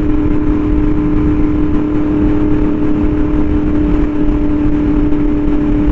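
Yamaha R1M's inline-four engine through an SC Project exhaust, running at a steady cruise with an unchanging pitch over a low rumble.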